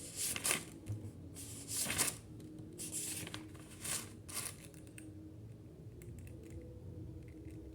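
Several short rustles in the first five seconds, handling noise close to the microphone, over a faint steady hum; quieter after that.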